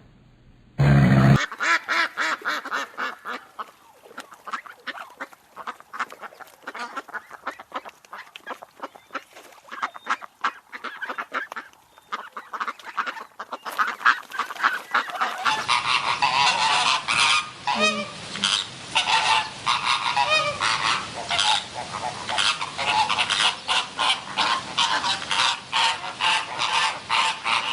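A flock of geese or similar waterfowl honking, with many overlapping calls in quick succession. About halfway through it changes to a louder, fuller recording of the same kind of honking flock.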